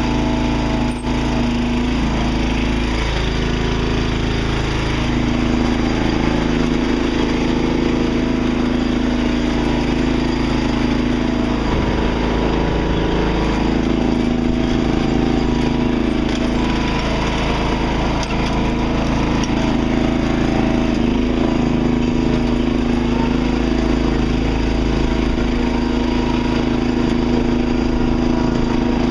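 Riding lawn tractor's small engine running steadily as it is driven, with an even engine note throughout.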